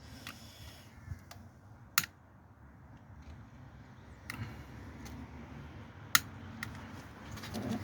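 A few scattered sharp clicks, about four, over a low steady rumble.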